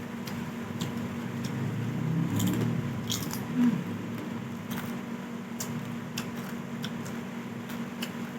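Eating sounds from a person having soup and porridge: scattered small clicks and chewing, with a louder bump about three and a half seconds in, over a steady low hum.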